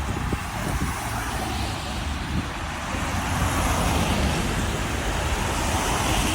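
Road traffic: a steady hiss of tyres and engines that swells about halfway through as vehicles pass, with low rumbling gusts of wind on the microphone.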